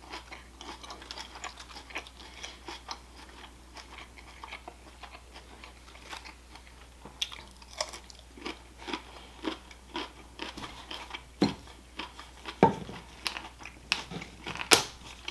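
A person biting and chewing crunchy raw vegetables close to the microphone: irregular crunches, more frequent and louder in the second half.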